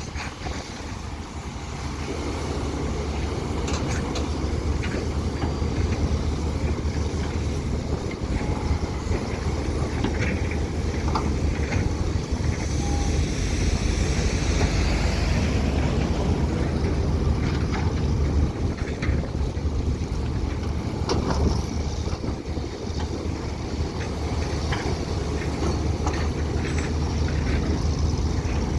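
Excavator diesel engine running with a steady low rumble that swells over the first couple of seconds and then holds, with scattered short clicks.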